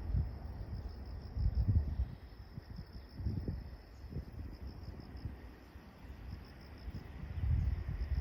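Insects chirping in a steady run of pulsed trills, over low, irregular rumbling swells.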